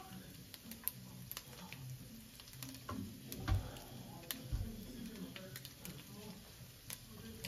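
Chopped meat and minced garlic sizzling in a stainless-steel frying pan, with scattered pops and crackles and a spatula stirring at first. Two dull thumps come around the middle.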